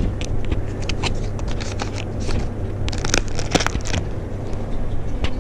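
Plastic cat-treat packet crinkling and crackling as it is handled and opened, in irregular sharp bursts over a steady low hum.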